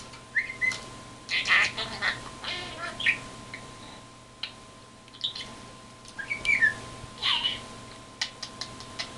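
Pet bird chirping and squawking in short calls, some of them quick whistled glides, with a quieter gap about four seconds in.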